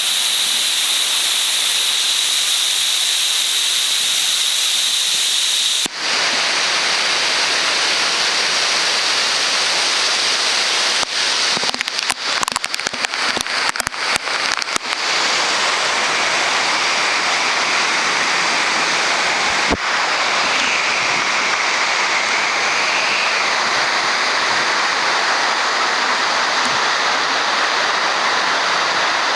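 Loud, steady rushing of a waterfall, Nabegataki's falling water. The sound changes tone about six seconds in, and there is a short stretch of crackling dropouts about halfway through.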